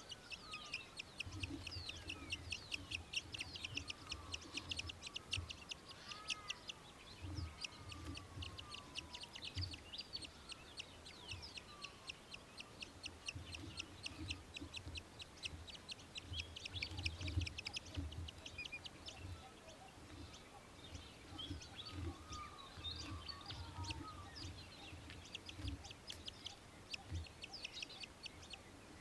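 Australian Hobby giving long runs of rapid, high-pitched chattering calls, about ten notes a second, with a pause about two-thirds of the way through. Low thumps sound faintly underneath.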